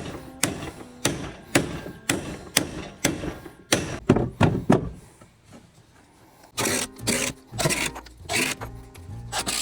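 Hammer knocking on wood, about two blows a second, as a part is forced to fit. The blows stop for about a second and a half midway, then the knocking resumes.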